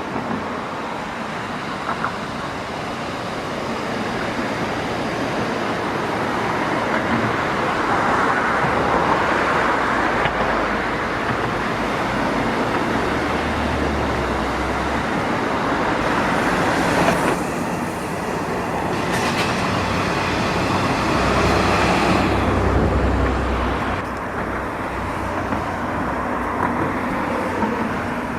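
Passenger train running, a continuous rail noise that swells and eases, with a short sharp sound about two-thirds of the way through.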